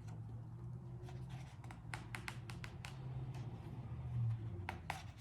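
Paper handling of a picture book, likely a page being turned: light rustles and sharp little ticks, clustered about two to three seconds in and again near the end, over a low steady hum.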